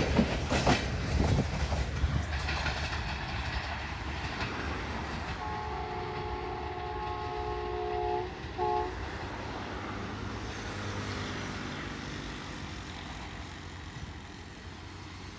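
A passenger train's last coach clatters past over the rail joints, the wheel clatter fading as the train pulls away. About five seconds in, the ZCU-20 diesel locomotive's multi-tone horn sounds in the distance: one long blast of nearly three seconds, then a short toot.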